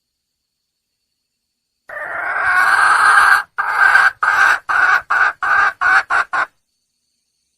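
Red junglefowl hen calling to attract a male: one long drawn-out note, then a run of about eight shorter notes that come shorter and quicker toward the end.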